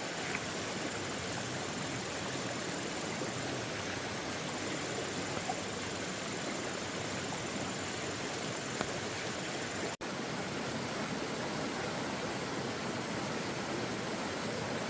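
Steady hiss of water, even and unbroken, cut off for an instant about ten seconds in. A faint thin high tone runs through the first ten seconds.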